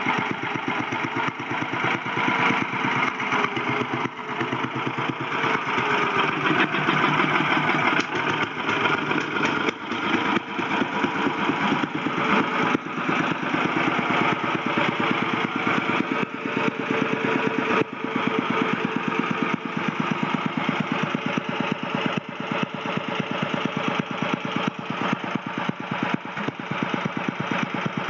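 Mitsubishi K6A single-cylinder water-cooled kerosene engine on an Iseki KL781 tiller, running steadily with a rapid, even firing beat. The speed wavers slightly in the first few seconds, then settles.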